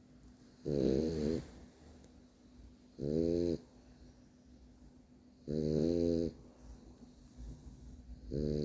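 French bulldog snoring in its sleep: four long, pitched snores, one roughly every two and a half seconds.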